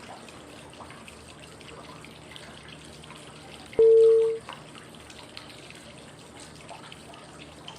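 Steady flowing-water white noise. About four seconds in, a single short, loud cue tone of one steady pitch sounds. It is one of the prompt tones, spaced five seconds apart, that mark each phase of a 5-5-5 breath: inhale, hold, exhale.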